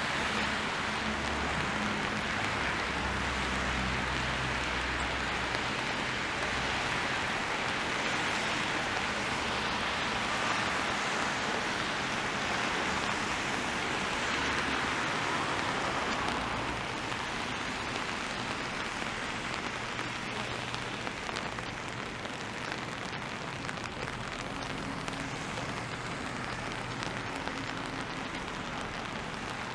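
Steady rain falling and splashing on wet pavement, mixed with traffic on the wet street. A low engine hum is heard in the first few seconds.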